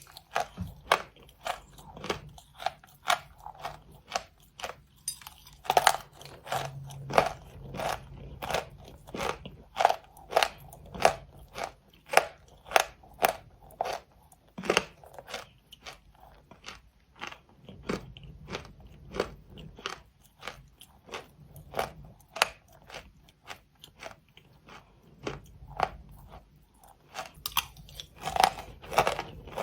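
Close-miked crunchy chewing and biting, a crisp crunch about twice a second with a brief pause about four seconds in.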